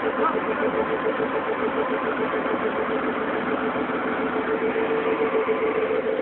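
Diesel engine of a tracked armoured vehicle running steadily at low, even revs.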